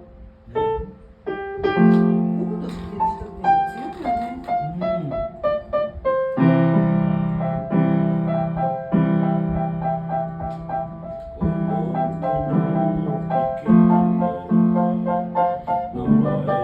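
Piano being played: a few single notes, then from about six seconds in, full repeated chords.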